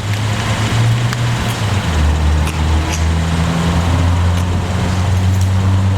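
New Honda car's engine idling with a steady low hum that settles slightly lower in pitch about two seconds in. The car has been left running so its battery charges after sitting on the lot.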